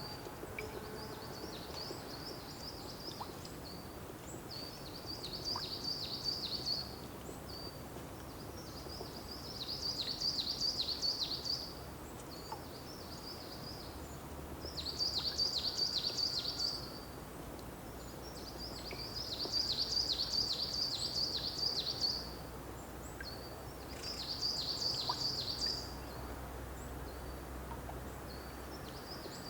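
A songbird repeating a song phrase of rapid high notes, each phrase about two seconds long, every four to five seconds over a steady outdoor hiss.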